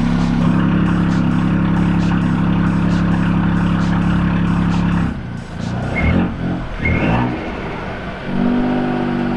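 Ford Fiesta ST's 1.5-litre three-cylinder turbo engine running through its Scorpion GPF-back exhaust. It holds a steady note for about five seconds, is revved twice about a second apart, then settles back to a steady note.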